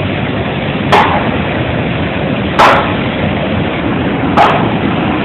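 Coffee dryer machinery running with a loud, steady noise, broken by three sharp, loud bangs about a second and a half apart.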